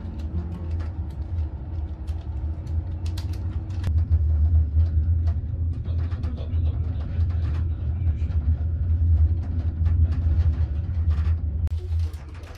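Passenger train rolling out of a station, heard from inside the carriage: a steady low rumble with scattered clicks and knocks from the wheels on the track.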